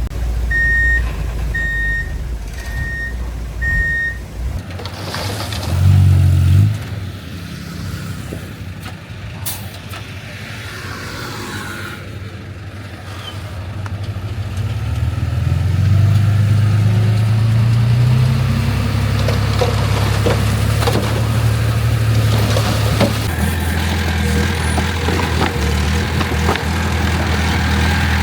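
Heavy construction machinery: a reversing alarm beeps at one steady pitch about once a second over a diesel engine, and stops after about four seconds. Diesel engines then run, with a brief loud surge about six seconds in, and from about halfway a steadier, harder-working engine note.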